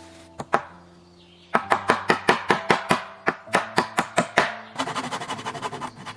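A rapid series of sharp chopping or hammering strikes from a hand tool, about five a second, followed near the end by quicker, lighter taps. Soft background music plays underneath.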